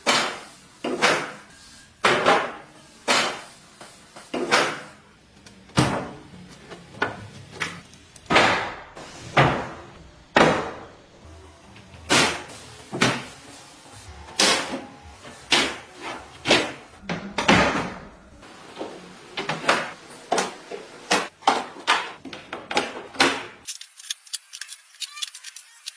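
A long series of sharp knocks or bangs, roughly one a second, each ringing out briefly. Near the end the sound changes suddenly to quicker, thin clicking.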